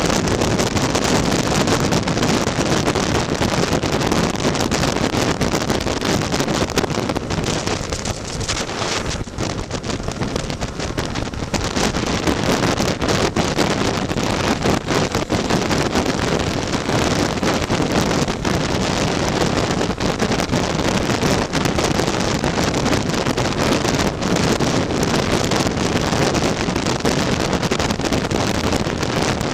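Heavy wind noise on the microphone over the running two-stroke engine of a tuned Lambretta scooter at speed, easing briefly about eight seconds in.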